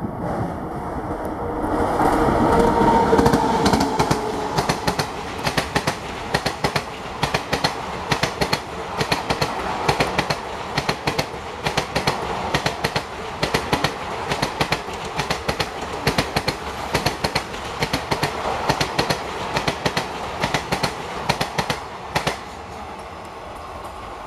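Electric-hauled passenger train passing close by: the locomotive's rush swells a few seconds in, then the coaches' wheels clatter over the rails in regular groups of clicks about once a second. The clatter drops away near the end as the last coaches go by.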